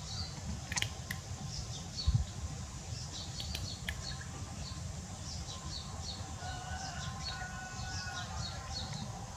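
Small birds chirping over and over in short high notes, with a few sharp clicks of nail clippers in the first second or so and one dull thump about two seconds in.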